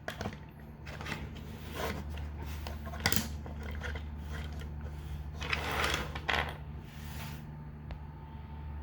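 Small hard plastic clicks and rattles of an action figure's parts being handled, with one sharp click about three seconds in and a longer rustle near the end, over a steady low hum.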